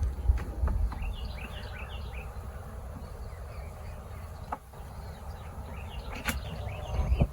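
Birds chirping in many quick short calls over a low steady rumble, which is the faint sound of an old farm truck running in the distance, under the hum of honey bees at an open hive.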